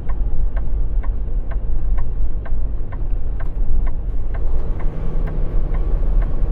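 A truck's indicator ticking steadily about twice a second over the low, steady rumble of the diesel engine, heard inside the cab.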